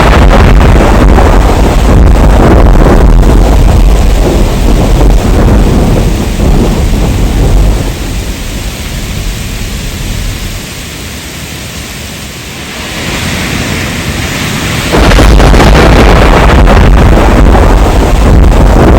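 Heavy rain with loud, rolling thunder rumble. The rumble dies away about eight seconds in, leaving mostly rain. It comes back abruptly about fifteen seconds in.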